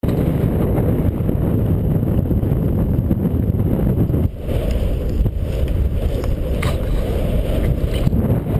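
Suzuki RM-Z450 motocross bike being ridden, heard as heavy wind buffeting on a GoPro-type action camera's microphone mixed with the bike's running noise. The roar eases briefly about four seconds in, with a few faint ticks after it.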